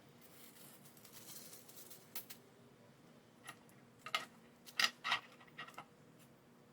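A handful of light, sharp clicks and taps, irregularly spaced, with the loudest cluster about three-quarters of the way through.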